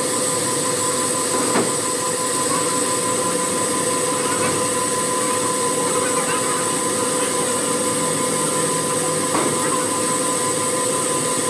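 Steady machinery noise with a constant hum, and a couple of brief knocks, one near the start and one near the end.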